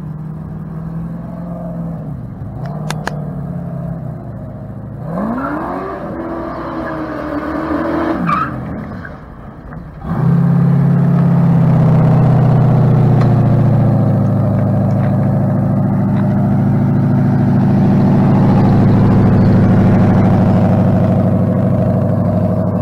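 Autocross car engine running and revving through the course, its pitch rising and falling as it accelerates. About ten seconds in, a much louder, deep steady engine note from a Corvair close by takes over.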